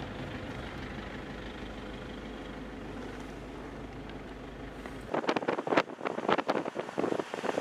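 A steady low hum, then about five seconds in an abrupt change to loud, irregular gusts of wind on the microphone.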